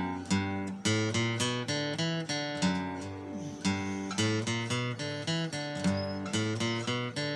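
Acoustic guitar fingerpicked slowly: alternating bass notes under a picked melody line, mostly plucked with the middle finger. A short break about three seconds in holds a sliding note.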